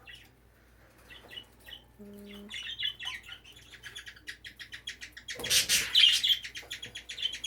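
Budgerigars chattering: scattered chirps, then from about three seconds in a fast, steady run of chirps, with a loud harsh burst around the middle.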